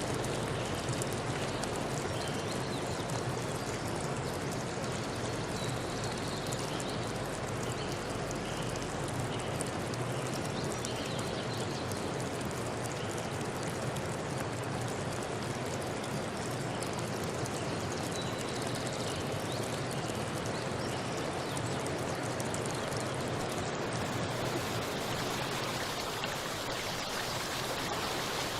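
Steady rushing water, an even, continuous hiss with no separate splashes or drops standing out.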